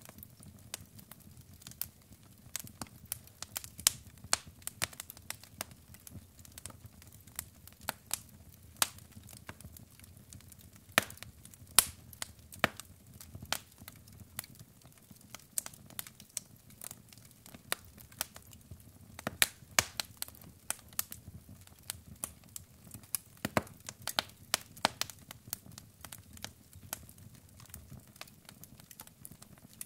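Wood fire burning in a fireplace: logs crackling with frequent irregular sharp pops and snaps over a soft low rumble of the flames.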